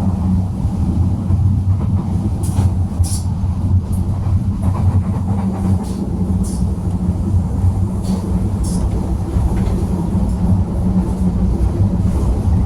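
Train running, a steady low rumble with several brief high-pitched squeaks scattered through it.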